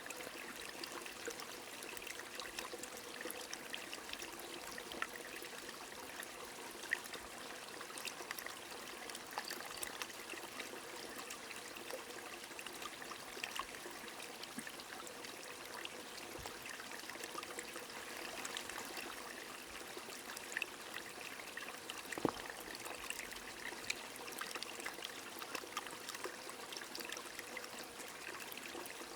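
A small stream trickling steadily, with rain falling and many light, scattered drops ticking.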